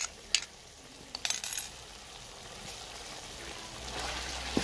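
A few sharp clinks as a spoon scrapes the mustard-greens and spinach paste out of a bowl into the pot, then a steady sizzle that grows louder as the paste hits the hot chicken masala and is stirred in.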